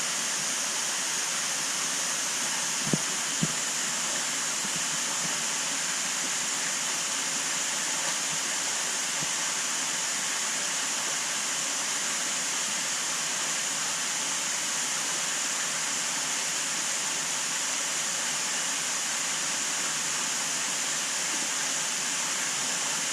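Steady rush of moving water from a large aquarium's water circulation, with two short faint knocks about three seconds in.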